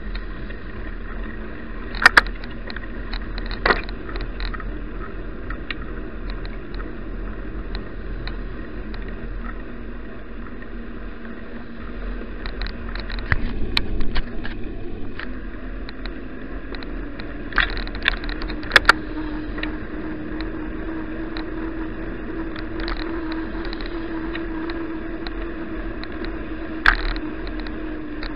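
Bicycle ride noise: a steady rumble of tyres and wind with a low hum that rises a little past the middle, broken by several sharp knocks and rattles, the loudest a few seconds in and again just past the middle.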